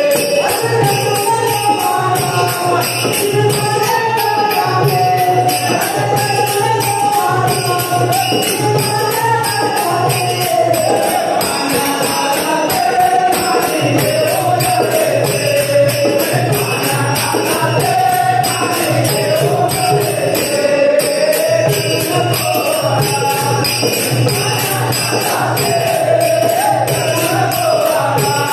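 Devotional bhajan music: a wavering melody over a steady low drone, with small jingling hand cymbals keeping an even beat.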